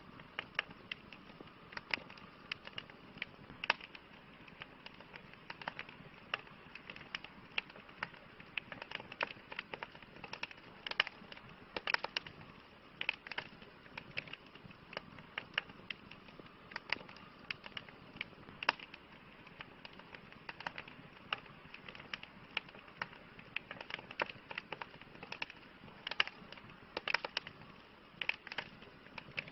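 Campfire crackling: a constant soft hiss of burning wood with frequent irregular sharp pops and snaps, several a second.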